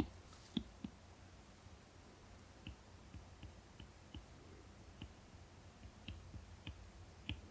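Faint, irregular small clicks and ticks of a 1st-generation Apple Pencil tip tapping and stroking on an iPad Pro's matte screen protector while sketching.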